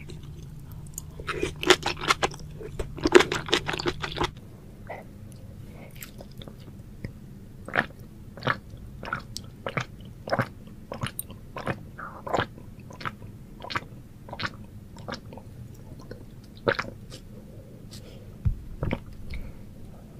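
Close-miked eating of spicy sauced noodles and seafood. A dense run of loud wet chewing and biting comes in the first four seconds. Sparser single mouth clicks follow at a steady pace through a drink from a glass, with a low thump near the end.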